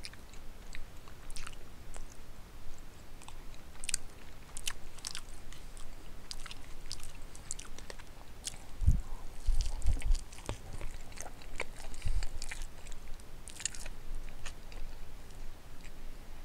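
A person chewing and biting a mouthful of pot roast with carrots and potatoes close to the microphone, with many small wet mouth clicks. A few louder low thumps come past the middle.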